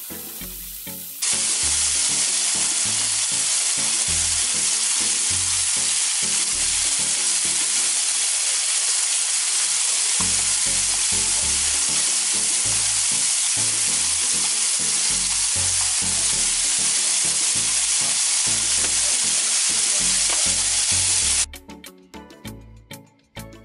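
Breaded chicken tenders frying in hot oil in a shallow pan: a loud, steady sizzle. It jumps up about a second in and cuts off abruptly near the end, leaving only music.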